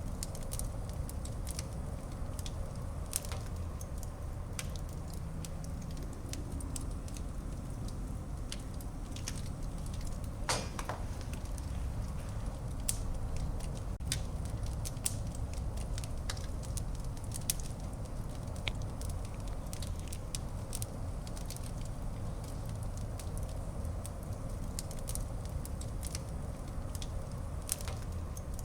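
Wood fire burning in a fireplace: a steady low rumble of flames with frequent sharp crackles and pops, one longer pop about ten seconds in.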